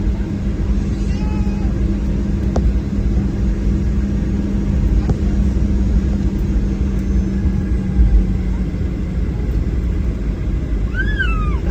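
Steady low rumble with a constant hum inside the cabin of a Boeing 737-800, its CFM56-7B jet engines running.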